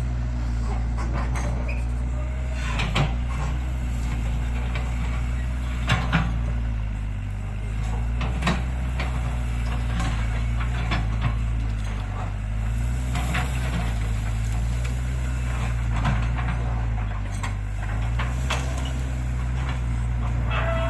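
Diesel engine of heavy construction machinery running steadily, its pitch dipping and recovering a few times as the load changes. Several sharp knocks and clanks are scattered through it.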